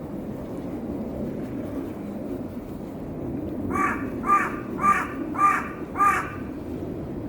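A crow cawing five times in quick succession, a little under two calls a second, over a steady low background rumble.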